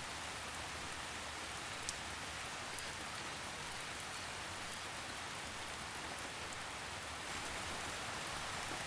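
Steady rainfall on leaves and forest floor, an even hiss with a couple of faint drip ticks.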